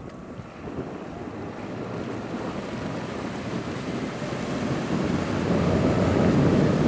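Targa 30 motorboat running on its Yamaha outboards, with water rush and wind buffeting the microphone. The noise grows steadily louder and is heaviest over the last couple of seconds.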